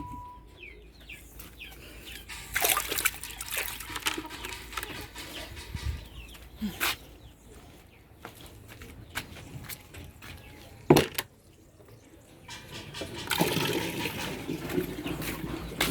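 Water being poured for poultry, splashing in two spells, with a couple of sharp knocks in between.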